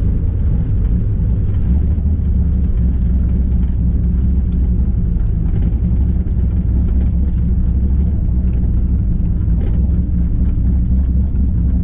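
Ford Mustang drag car's engine running steadily at low speed, heard from inside the cabin: an even, low drone with faint light rattles on top.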